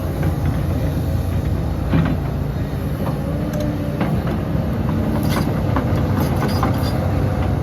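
Heavy diesel earthmoving machinery running steadily, with scattered metallic clanks and knocks.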